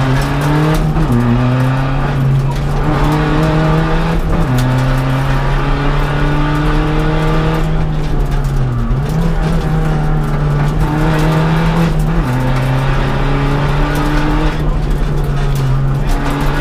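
Seat Ibiza TDI rally car's turbodiesel engine running hard under load, heard from inside the cabin, its note stepping at a gear change about every three to four seconds.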